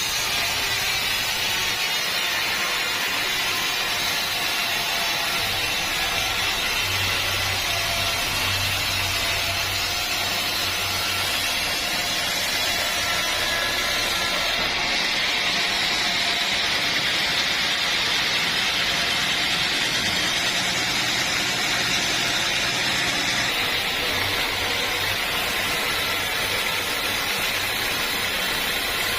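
Sawmill saw running steadily with a continuous, unbroken noise.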